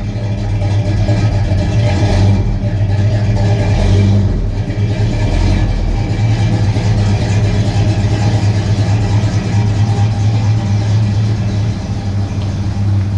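Vehicle engine idling, with brief light revs about two and four seconds in.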